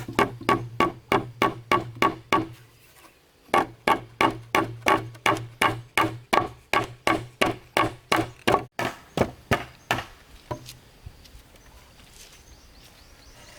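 A hand tool striking repeatedly in a fast, even rhythm of about three blows a second. The blows stop briefly, resume, then die out about ten seconds in.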